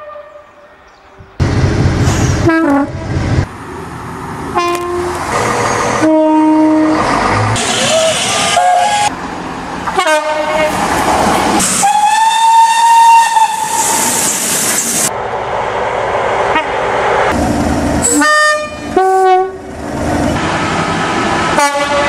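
A train running, sounding a series of signal blasts at different pitches over the running noise; the longest blast is held for about two seconds about twelve seconds in.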